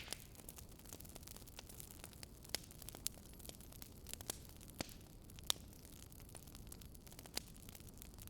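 Burning firewood crackling: irregular sharp pops and snaps, a few louder than the rest, over a steady low hiss and hum.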